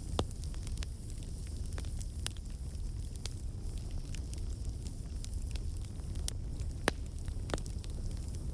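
Wood campfire burning, with a steady low rumble and hiss under frequent irregular crackles and sharp pops from the burning logs.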